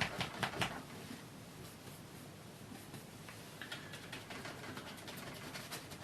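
Oil-paint brush dabbing and stroking on a canvas: a few quick taps in the first second, then soft scratchy brushing.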